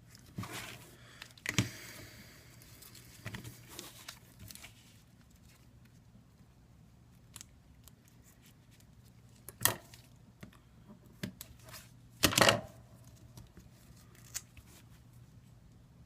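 Strips of sticky adhesive tape being torn and peeled off their backing in a few short rips, the longest and loudest about twelve seconds in, with scattered light clicks and taps from handling in between.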